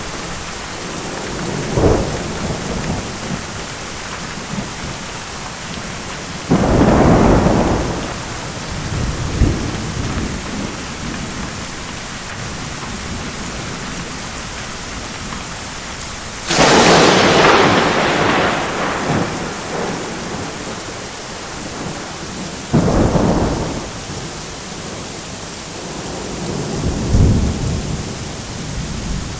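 Steady rain with repeated thunder: five or six claps and rumbles, the loudest a sharp crack about sixteen seconds in, others about two, seven, twenty-three and twenty-seven seconds in.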